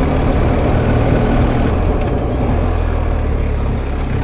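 BMW R1250 GS Adventure's 1254 cc boxer-twin engine running at a steady cruise, with wind and road rush over it.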